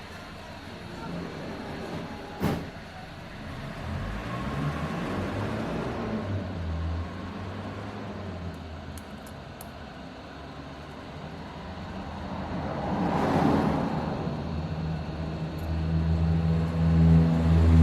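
Hot air rework station blowing steadily as a phone's charging port is heated off the board. There is a sharp click a couple of seconds in, and a low hum swells near the end.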